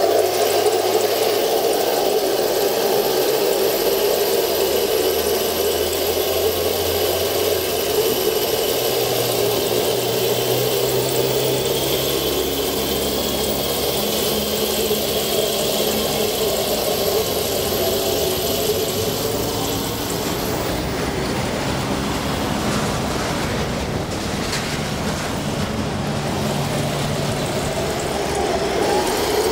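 Electric drive motors and gear transmission of an RC Leopard tank running with a steady whir, the pitch shifting up and down now and then as the speed changes, with a thin high whine on top that stops about two-thirds of the way through.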